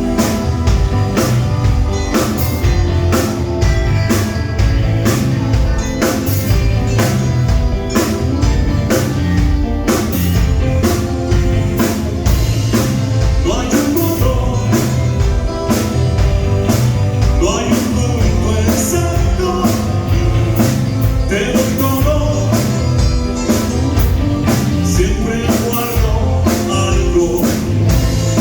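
Live rock band playing a sound check on drum kit and guitar, with a singing voice, recorded on a mobile phone.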